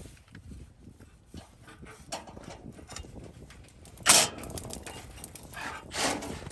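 Old steel exhaust pipes being worked loose and slid out from under a pickup: scattered knocks and rattles, a loud metallic clunk about four seconds in, and a longer scrape near the end.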